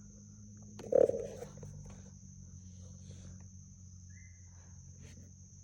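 Steady high-pitched drone of insects in the bankside bush, over a low steady hum, with a single loud thump about a second in.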